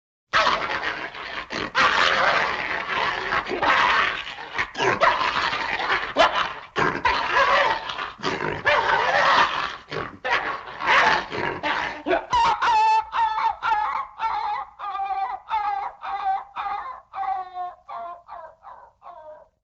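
Animal vocalizing: a loud, dense, ragged stretch lasting about twelve seconds, then a string of short pitched cries, about two a second, each a little lower as they fade out.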